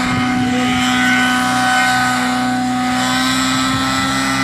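Nitro-powered Synergy N9 RC helicopter in flight: its glow engine and rotor running at a steady high pitch.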